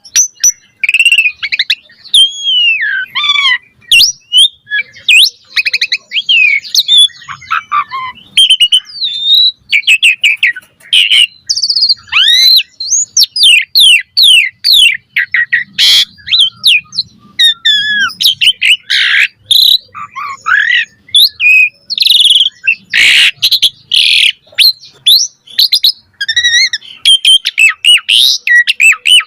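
Asian pied starling (jalak suren) singing a long, fast, varied song: a dense run of loud whistles, chirps, rising and falling glides and sharp clicks, with hardly a pause.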